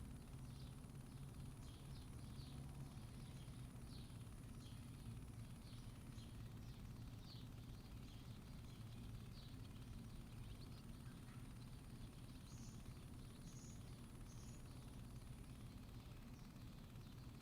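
Quiet outdoor ambience: a steady low hum with faint, repeated short chirps from small birds, and three brief higher chirps about two-thirds of the way through.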